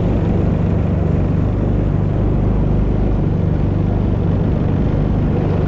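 Aquanami JetAngler jet kayak running steadily under engine power at a moderate cruising speed: a steady low engine hum with an even rush of noise over it.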